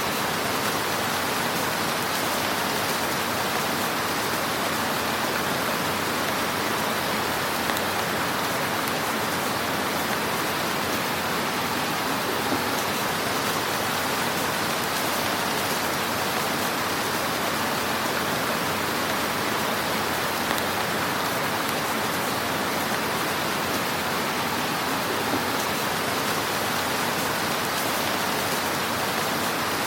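Wood fire crackling in a fireplace: a dense, steady hiss of fine crackles, with a few slightly louder pops.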